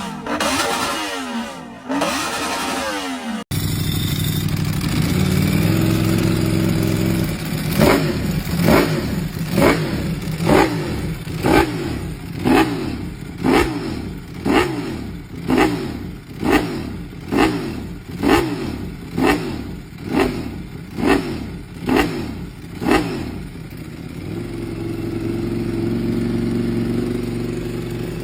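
Superbike engine with a loud aftermarket-style exhaust, revved in repeated quick throttle blips about once a second, each rising and falling in pitch, then settling back to a steady idle near the end. It opens with a few seconds of another rise and fall of revs, which cuts off abruptly.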